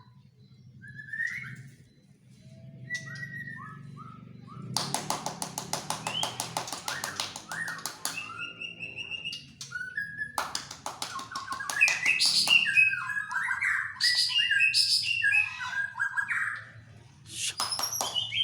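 A young white-rumped shama (murai batu), about seven months old, singing: sparse whistled and sliding notes at first, then a fast rattling trill about five seconds in, then dense, loud, varied phrases of whistles and chatter through the second half. A low steady hum runs underneath.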